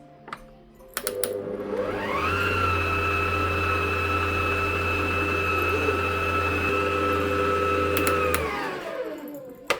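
Electric mixer beating mascarpone into whipped cream. Its motor whine rises as it is switched on about two seconds in, runs at a steady speed for about six seconds, then winds down near the end.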